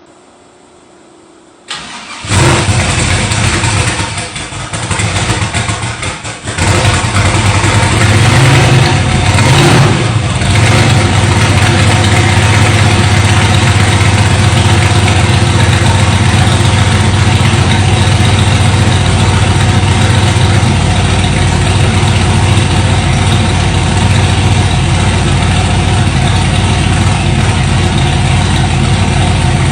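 Twin-turbo 408 LQ4 stroker V8 in a 1987 IROC-Z Camaro being started: it cranks and fires about two seconds in, runs unevenly for a few seconds, then settles into a steady idle.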